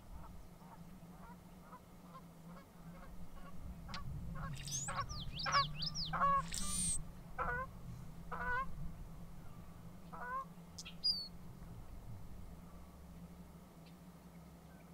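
Birds calling: a run of short repeated calls that grows louder toward the middle, with high, squeaky, sliding notes over the loudest part, then a few separate calls near the end.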